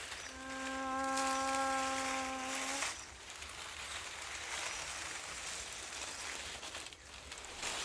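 A single voice holds one steady note for about two and a half seconds, then stops; a faint hiss runs underneath throughout.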